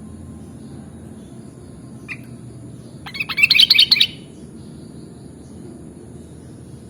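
Sooty-headed bulbul (kutilang) giving a single short note about two seconds in, then a rapid burst of chattering song lasting about a second. A steady low background noise runs underneath.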